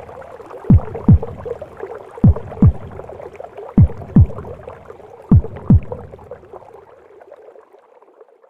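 A mother's heartbeat and womb sound: pairs of low double thumps about every one and a half seconds over a steady whooshing, gurgling wash. The beats stop about six seconds in, and the wash fades out near the end.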